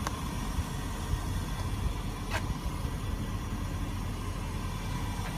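Steady low rumbling background noise, with a sharp click at the very start and a faint short falling chirp about two and a half seconds in.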